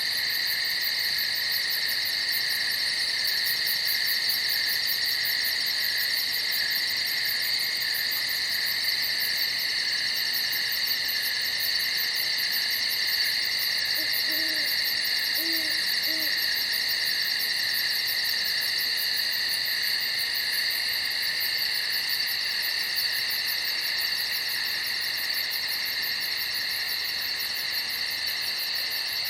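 Steady night chorus of crickets: several even, unbroken trills at different pitches over a fast, high pulsing trill. About halfway through, three faint short low calls sound.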